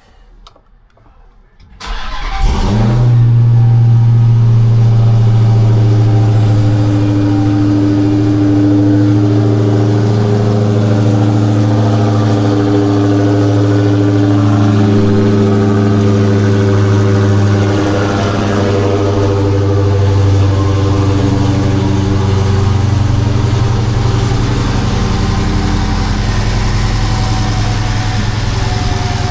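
Hellcat supercharged 6.2-litre HEMI V8 swapped into a Dodge Magnum, starting for the first time: it fires about two seconds in and settles into a loud, steady idle, easing off slightly about eighteen seconds in.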